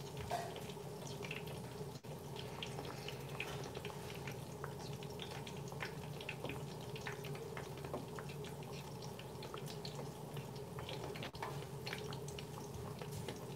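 Plantain slices frying in hot oil in a pan: a quiet, steady sizzle with many small, irregular pops and crackles.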